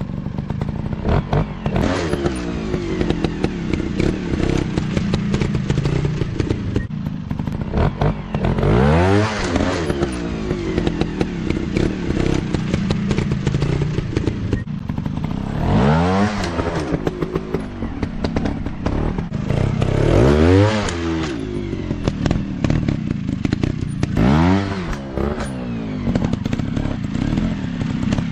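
Off-road dirt bike engines running, with the pitch climbing and dropping back four times as the throttle is opened and closed. Short knocks and clatter run under the engines throughout.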